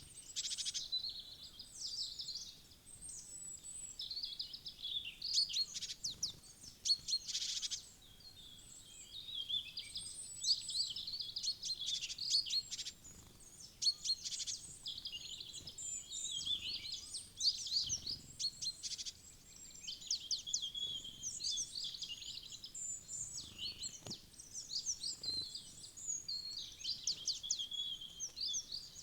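Small songbirds chirping and twittering almost without a break, many high short calls overlapping in a busy woodland chorus.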